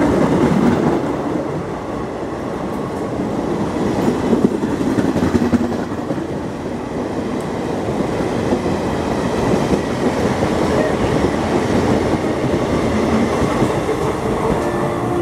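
An express train's passenger coaches running past at speed: a loud, steady rush and rattle of wheels on rails.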